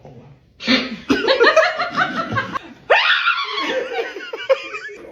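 People laughing loudly in two bursts, the first starting just under a second in and the second about three seconds in.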